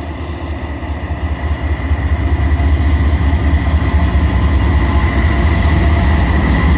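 Freight train rolling past, getting louder over the first three seconds, with a deep rumble and a thin, steady high whine above it.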